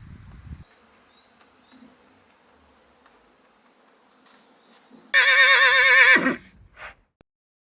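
Horse whinnying: a loud, quavering call of about a second that drops in pitch as it ends, followed by a short fainter call.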